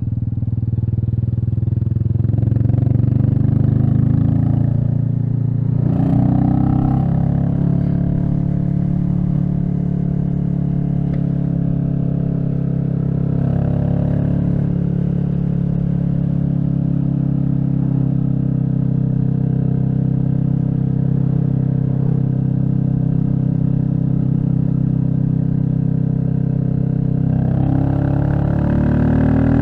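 Royal Enfield Meteor 350's single-cylinder engine running steadily under way. The engine note dips and picks up again about six seconds in, and the revs climb near the end as it accelerates.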